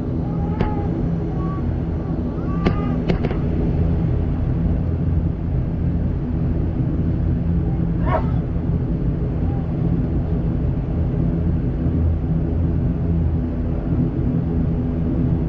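Steady drone of an ATR 72's turboprop engines and propellers, heard inside the passenger cabin. A few short clicks and brief faint squeaks come in the first three seconds and again around eight seconds.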